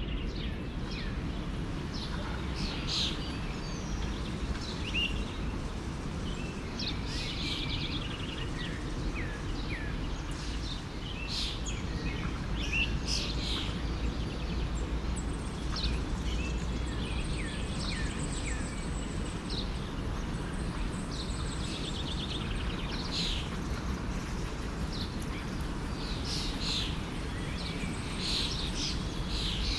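Many small birds chirping and calling over the steady rush of a flowing stream.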